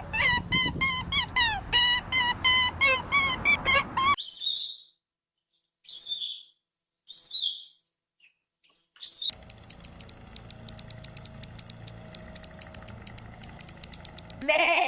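Birds calling in a rapid run of short chirps for about four seconds, then a few isolated high chirps in near silence. From about nine seconds in comes a fast, dry clicking series, several clicks a second.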